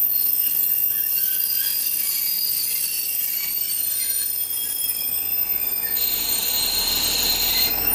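KiHa 48 diesel railcar train rolling slowly along the platform as it slows to stop, with shifting high-pitched metallic squeals over a low rumble. A louder, steadier squeal comes in about six seconds in and cuts off just before the end.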